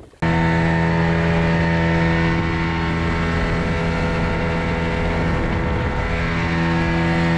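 Motorboat engine running steadily at a constant speed, cutting in suddenly just after the start.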